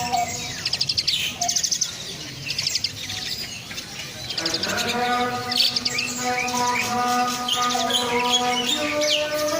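Asian pied starling chattering and whistling: rapid rattling trills and short sliding whistles, repeated again and again.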